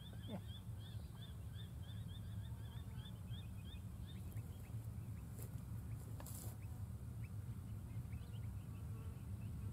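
A bird repeating a short chirping call about three times a second, fading out about four seconds in, followed by scattered short downward chirps. Under it runs a steady low rumble.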